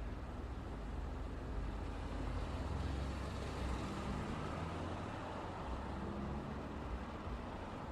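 Road traffic moving past: a steady rumble of car and truck engines and tyre noise, swelling slightly a couple of seconds in as a vehicle goes by.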